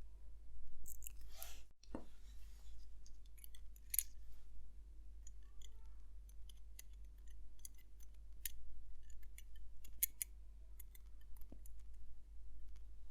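Irregular light metallic clicks and taps of watchmaker's tools, such as tweezers, handling small parts while a watch movement is assembled, with a short rustle about a second in, over a steady low hum.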